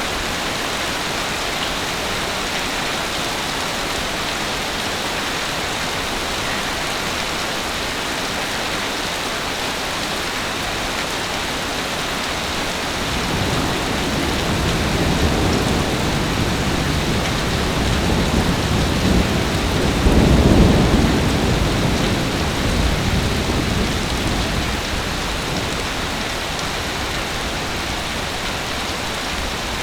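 Steady heavy rain. About halfway through, a long low rumble of thunder swells up, peaks, and fades away over several seconds.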